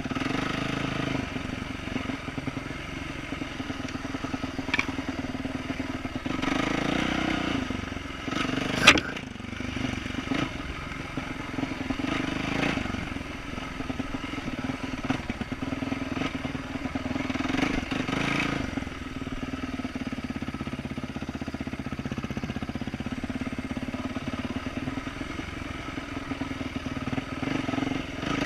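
2012 Yamaha YZ450F's single-cylinder four-stroke engine with an aftermarket exhaust, ridden slowly over rooty trail, the throttle opening and closing several times. Rattling from the bike runs along with it, and there is a sharp knock about nine seconds in.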